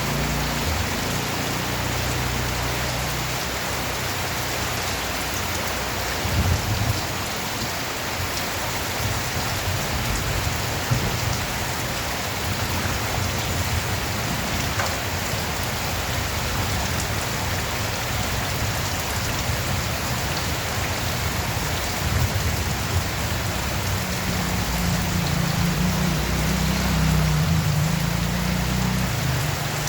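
Steady, heavy rain falling and pattering on surfaces, with a low rumble that swells a few times and is strongest near the end.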